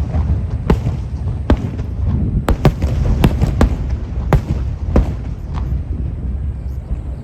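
Aerial firework shells bursting: a quick run of sharp bangs over a continuous low rumble of echoing booms, the bangs thinning out near the end.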